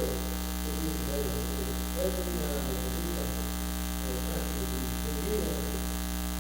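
Steady electrical mains hum and buzz in the sound system, the fault behind the recording's bad sound, with faint indistinct voices beneath it.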